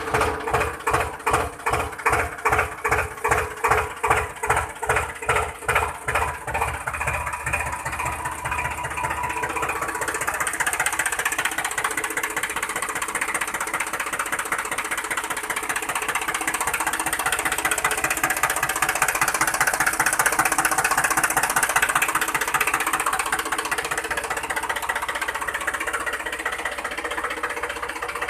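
Small DIY model tractor's drive running: an even pulsing about two and a half times a second for the first several seconds, then a steady, busier mechanical whir.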